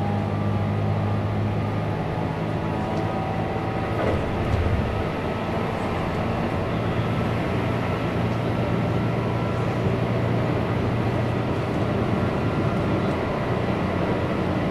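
Keihan 8000 series electric train running at speed, heard from inside the passenger car: a steady rumble of wheels on the track with a low hum underneath.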